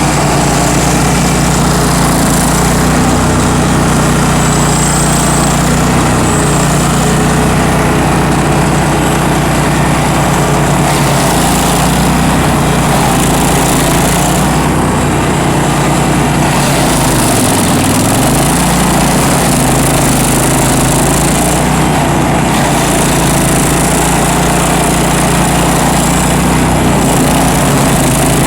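Bandit ZT1844 stump grinder's gasoline engine running steadily at high speed. About two-thirds of the way through, its pitch dips briefly and then comes back up.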